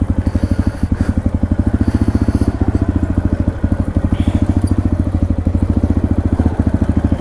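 Dirt bike engine running steadily at low revs, with a rapid, even train of firing pulses.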